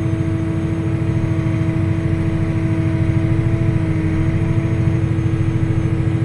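Tractor engine running steadily while pulling a land roller across a field, with a steady low rumble and a constant humming tone over it.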